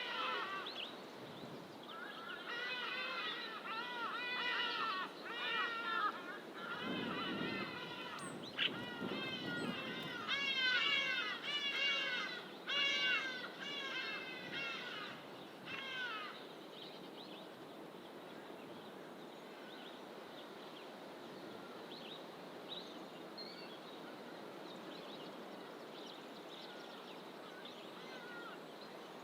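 A bird calling loudly in a long series of repeated, rough, rising-and-falling notes for about a quarter of a minute. The calls stop about halfway through, leaving a steady background hiss with a few faint, distant bird chirps.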